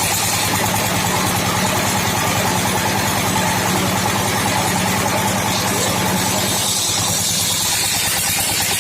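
Engine-driven sawmill running steadily: a fast, even engine pulse with a steady whine and a dense high hiss over it.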